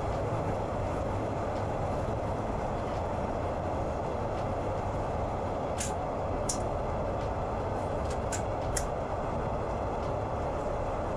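Passenger train running along the track, heard from inside the carriage: a steady rumble and hiss, with four short sharp clicks past the middle.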